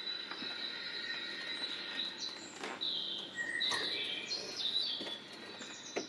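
Birds chirping: a run of short high chirps and whistles between about two and five seconds in, over steady outdoor background noise.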